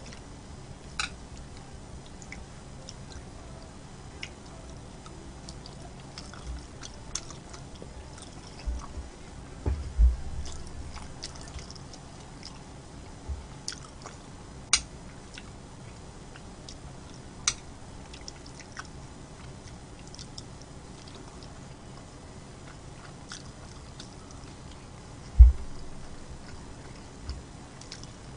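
Close-miked eating: chewing and biting with soft mouth sounds, broken by scattered sharp clicks and a few low thumps, the loudest about three seconds before the end.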